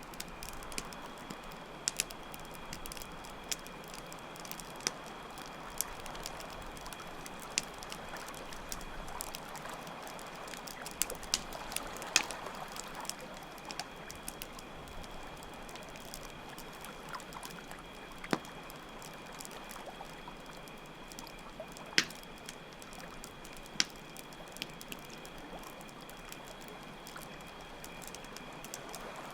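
Campfire crackling with scattered sharp pops over a steady trickling stream of water, with crickets chirping in a continuous high trill.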